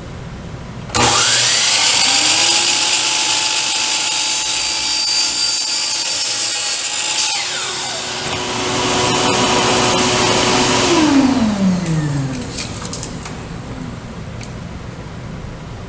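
Small table saw ripping a strip of plexiglass: the motor switches on about a second in and spins up, runs steadily through the cut, then is switched off and winds down with a falling whine. A few light knocks follow near the end.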